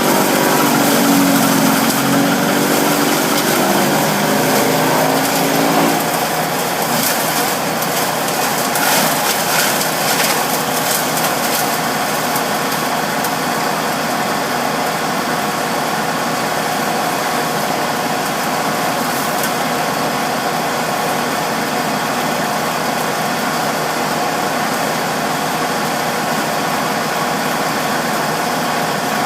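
Bearcat wood chipper running loudly and steadily. A pitched hum under the running noise stops about six seconds in, and a short run of cracks and rattles follows a few seconds later.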